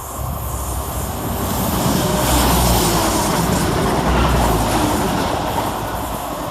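A pair of coupled diesel multiple units running past on the rails. The engines rumble and the wheels make steady noise, which swells to its loudest about two to four seconds in and then eases off.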